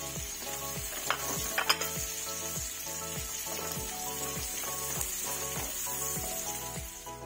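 Chopped garlic and onion sizzling in hot rendered pork fat in a nonstick frying pan, stirred with a spatula, with a couple of sharp utensil knocks on the pan about a second in. Soft background music with a steady beat plays underneath.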